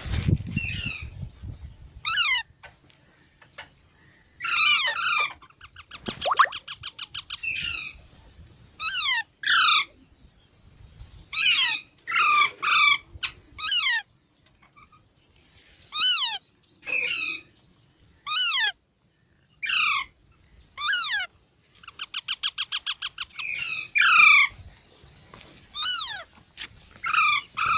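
Baby parrots calling: a string of short, harsh squawks, each dropping in pitch, coming every second or so. Twice, about a quarter and about three-quarters of the way through, the calls break into rapid stuttering chatter.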